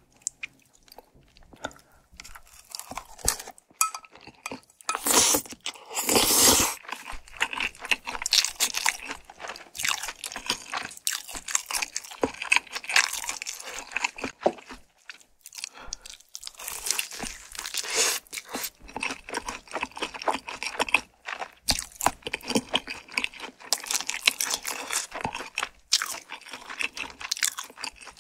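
Close-miked person eating spicy tteokbokki: wet, sticky chewing and biting sounds in quick, irregular strokes, loudest in a burst about five to seven seconds in.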